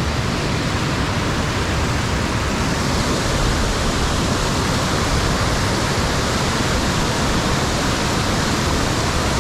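Creek rapids rushing: a steady, even wash of running water.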